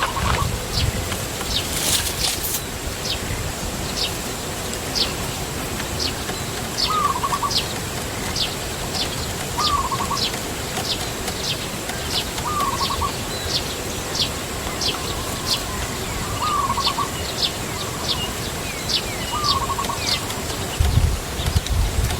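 Birds calling: a short high chirp repeated over and over, about once a second, with a lower call of a few quick notes every few seconds.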